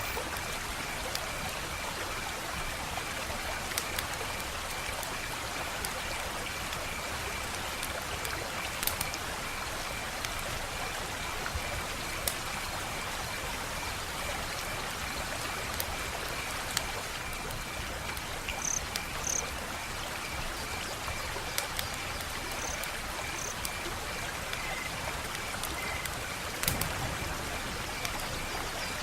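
Wood fire crackling: a steady hiss with scattered sharp pops, while a night insect chirps in a fast, steady pulse throughout.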